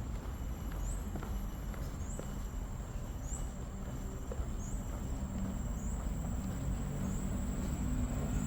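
Outdoor trail ambience: a steady low rumble under a high, short chirp that repeats about once a second over a thin steady high whine, with a few faint ticks of footsteps. A low hum builds near the end.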